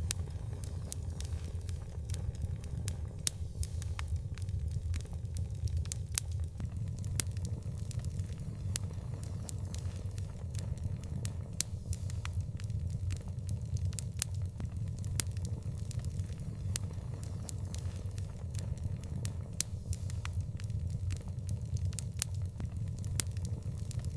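Wood fire burning with a steady low rumble and irregular sharp crackles and pops throughout.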